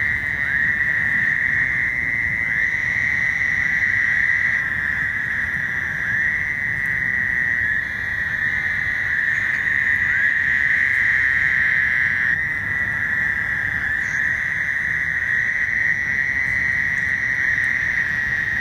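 Breeding chorus of Fowler's toads: many males calling at once, their overlapping calls merging into a loud, continuous high drone with new calls starting every second or so.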